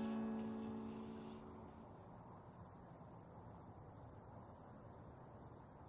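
A last plucked-guitar chord rings out and fades over about the first two seconds, leaving faint, steady cricket chirping.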